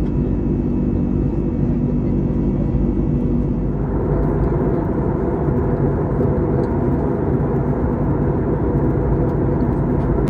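Steady engine and airflow noise inside the cabin of an Airbus A321neo airliner, with a low hum. About four seconds in it turns into a fuller rushing sound.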